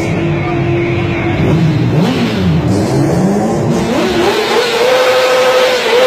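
Car engine revving: its pitch drops and climbs back a couple of times, then climbs about four seconds in and is held high and steady.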